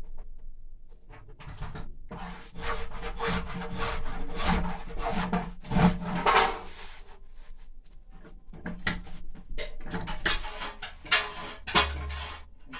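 Hand tool scraping and rasping, stroke after stroke, across the wood of a carved mulberry bowl as its walls are thinned. The strokes come quickly, two or three a second, through the middle, then turn sparser and sharper near the end.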